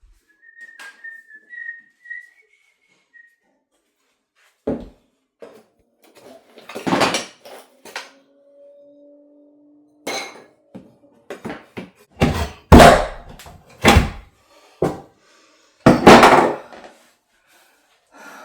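Hand demolition of wood: a series of loud knocks and crashes, from boards and debris being pried loose and dropped, that comes thicker in the second half. A short, high, slightly rising whistle sounds near the start.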